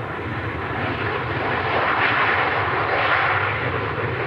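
Jet airliner engine noise, a steady rushing roar that swells to a peak two to three seconds in and then eases a little.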